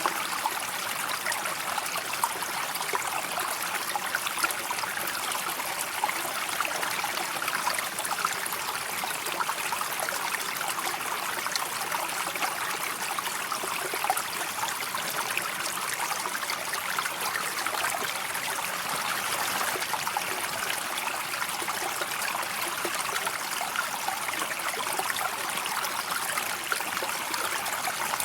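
River water flowing steadily, a continuous even rush of water with many small splashes and trickles in it.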